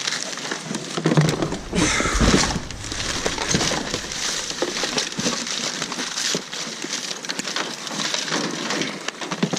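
Plastic garbage bags of trash rustling and crinkling as they are pulled and shifted in a dumpster, with scattered knocks and a dull thump about two seconds in.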